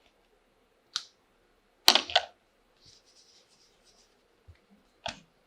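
Small plastic toy pieces clicking and knocking as they are handled: a click about a second in, a louder cluster of clicks around two seconds, a light rustle, and another click near the end.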